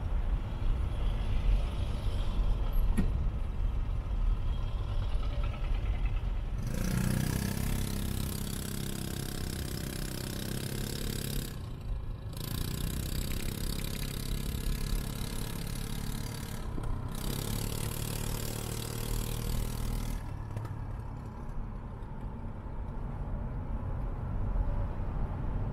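Road and engine noise heard from inside a car driving in city traffic: a steady low rumble, with a louder stretch of hiss and hum from about 7 to 20 seconds in that drops out briefly twice.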